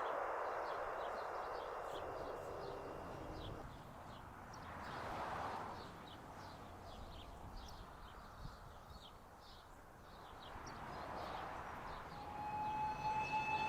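Rushing noise of a passing train fading away, then birds chirping with two soft rushing swells. Near the end a steady siren tone comes in.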